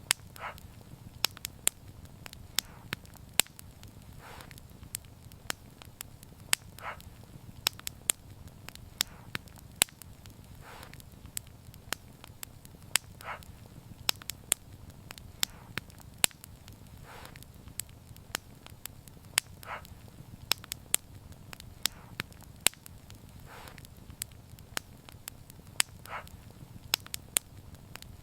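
Wood fire crackling, with frequent sharp pops at irregular intervals over a low, steady rumble, and a short soft hiss every couple of seconds.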